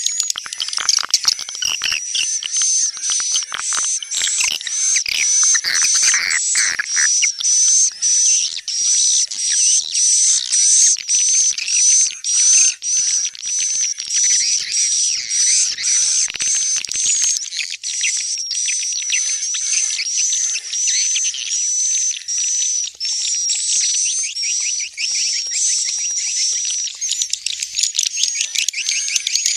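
Swiftlet lure call: a continuous, fast train of high, buzzy chirps and twitters from swiftlets, about two a second, of the kind played to draw swiftlets into a bird house.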